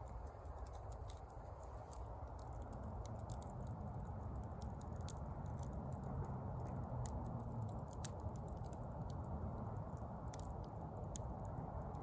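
Bonfire embers crackling: scattered small pops and ticks at irregular intervals over a steady low rumble.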